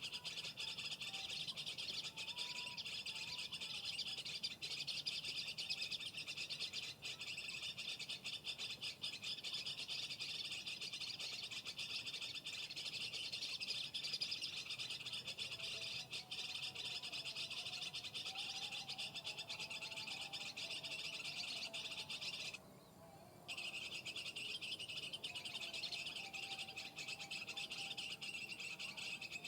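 Dense, continuous high-pitched chirping of many birds, with a few lower warbling calls underneath. It cuts out abruptly for about a second near 23 s, then resumes.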